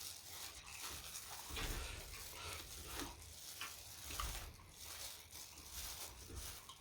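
Close-miked chewing and wet mouth sounds of a person eating: slow, irregular chews with soft low thuds and crackly clicks.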